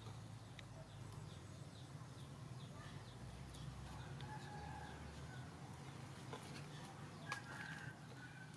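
Faint bird calls, short chirps and a few brief clucking calls, over a low steady hum, with one sharp click about seven seconds in.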